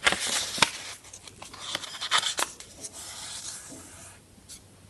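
Yellow construction paper being handled and folded over, rustling and rubbing, with a couple of sharp crackles in the first second; the rustling dies away well before the end.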